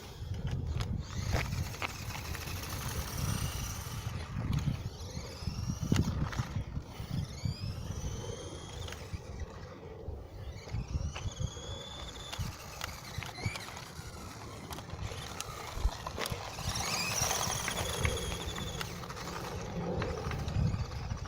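Small electric motor of a toy RC monster truck whining up in pitch as the truck accelerates, again and again in short bursts, over an uneven rumble with scattered knocks.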